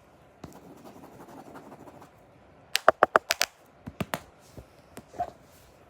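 Hand-made noise: a soft scratching for about a second and a half, then a quick run of about six sharp taps, followed by a few scattered lighter taps.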